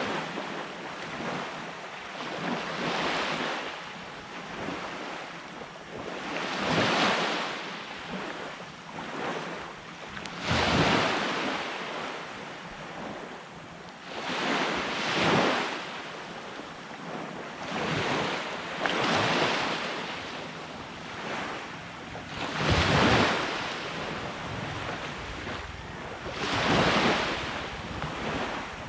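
Ocean waves breaking and washing onto a beach, a swell of surf every three to four seconds, with wind buffeting the microphone.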